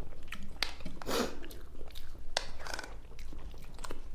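Close-miked eating sounds: chewing and wet mouth noises of someone eating idli with sambar, with scattered small clicks and a couple of brief swishing sounds.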